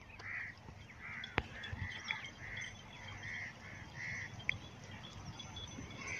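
Birds calling in short repeated notes, roughly one a second with a brief pause partway through, over a faint low rumble.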